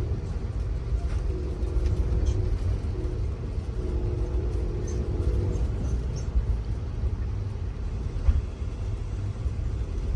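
Amtrak Auto Train passenger car rolling along the track: a steady low rumble, with a single sharp click about eight seconds in.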